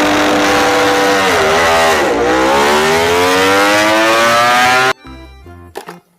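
Racing motorcycle engine revving: it holds a steady pitch, dips twice, then climbs steadily in pitch before cutting off suddenly about five seconds in.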